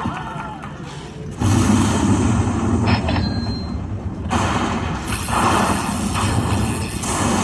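Slot machine sound effects during a bonus round: loud rumbling booms that start suddenly about a second and a half in and again about four seconds in, over a steady low hum.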